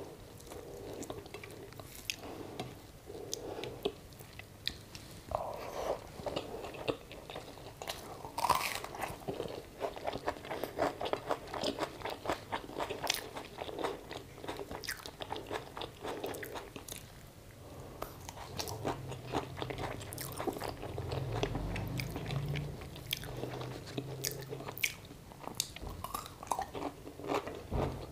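A person chewing and crunching mouthfuls of rice mixed with fried potato, with many small wet clicks and crackles that come thickest about a third of the way in.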